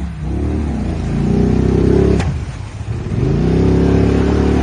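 Polaris off-road vehicle engine revving up twice, its pitch rising each time, with a brief drop about two seconds in.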